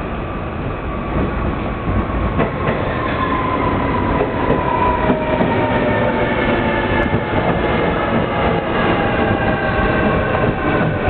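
Azusa limited express electric train pulling into the platform and running past slowly, with a steady rumble, a whine that falls gradually in pitch as it slows to a stop, and a few sharp clacks of wheels over rail joints.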